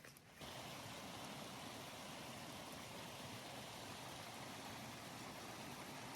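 Steady hiss of falling rain that cuts in abruptly less than half a second in.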